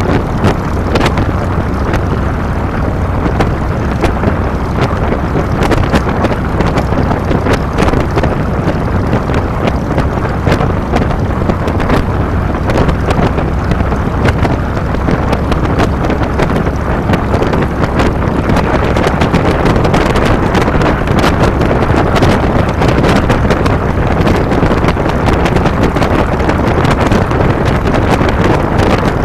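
2007 Harley-Davidson Fat Boy's Twin Cam 96 V-twin engine running steadily under way, with wind buffeting the handlebar-mounted microphone.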